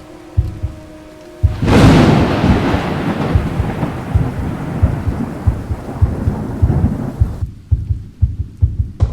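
Rain with a thunderclap breaking about a second and a half in, its rumble fading over the next several seconds, with dull thuds of drops throughout. The sound cuts off abruptly at the very end.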